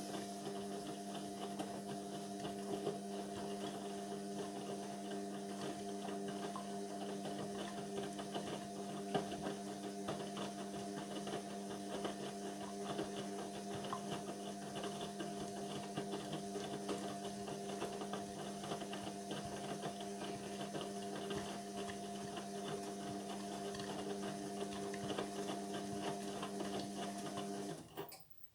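Indesit washing machine running with a steady, unchanging electrical hum that cuts off abruptly near the end.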